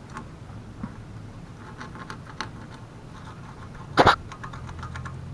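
Small dental-kit pick tools clicking and scraping as they dig dirt out of a mobility scooter's rear suspension hinge. About four seconds in comes one loud, short double burst.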